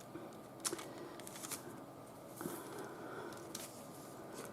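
Faint scratching of a brush spreading Mod Podge over a paper journal page, with a few light clicks.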